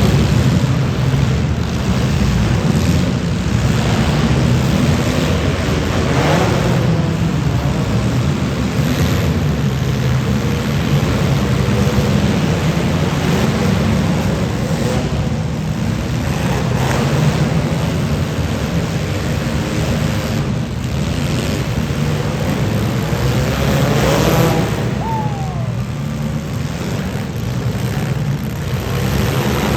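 Demolition derby cars' engines running and revving together in a steady low rumble, with a few sharp impacts along the way.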